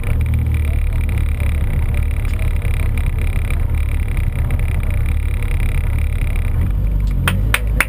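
Peugeot 106 rally car's engine idling steadily while the car stands still, heard from inside the cabin. Three sharp clicks come near the end.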